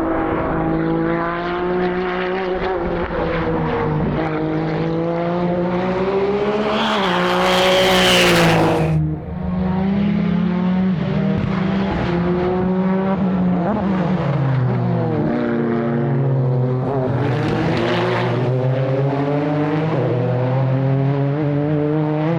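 Modified time-attack race car engines running on a circuit, their pitch rising and falling through gear changes and throttle. The sound gets louder and brighter from about six and a half seconds in and cuts off sharply around nine seconds. There is a second, smaller surge near eighteen seconds.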